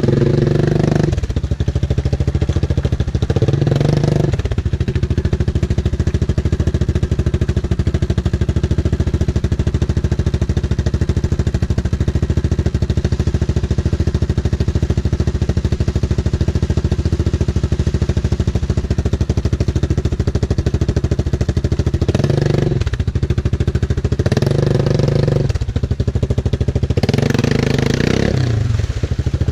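Yamaha Grizzly 700 ATV's single-cylinder four-stroke engine running steadily under way, with several short surges of throttle near the start and again near the end. The owner says the engine was cutting out for a split second before revving in this early part of the ride, before it was fully warmed up.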